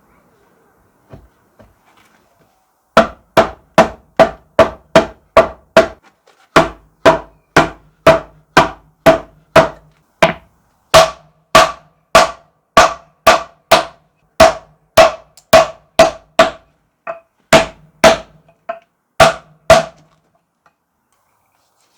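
A hammer striking metal again and again, about three blows a second in runs with brief pauses, each blow ringing briefly. The blows start a few seconds in and stop about two seconds before the end.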